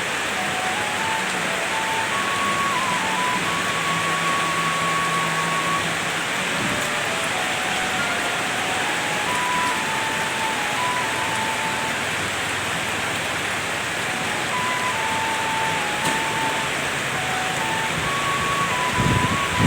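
Heavy rain falling steadily, a dense even hiss. Through it runs a faint simple tune of single high notes stepping from pitch to pitch. A louder low rumble comes in near the end.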